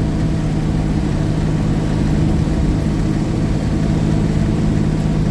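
1949 Chevy truck driving at a steady cruise: the engine's even drone with road rumble, heard from inside the cab.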